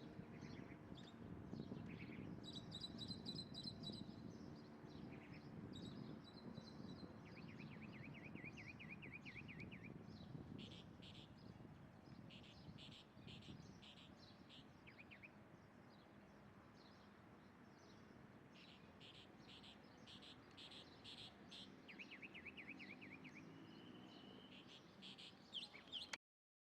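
Small birds chirping and trilling over a faint low background rumble: quick runs of high chirps, with two fast trills, one around the middle and one near the end.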